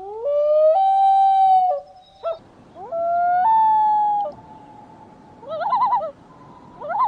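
Loon calling: two long wailing notes that slide up in steps and then hold, followed near the end by two short quavering tremolo calls.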